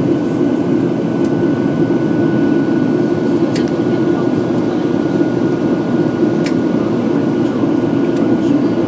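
Steady cabin noise of a jet airliner in flight after take-off: the engines and rushing air make an even, loud drone, with a thin steady whine above it and a few faint clicks.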